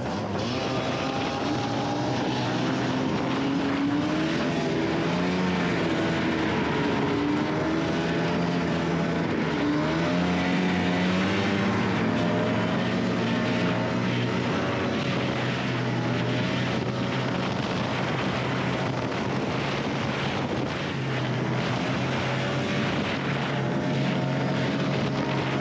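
Snowmobile engine running under way, its pitch rising and falling as the throttle changes, with a steady rush of track and wind noise.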